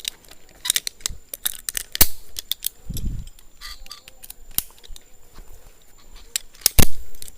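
Sharp metallic clicks and clinks of zipline gear being handled on the launch platform, with a dull thump about three seconds in and a louder click near the end.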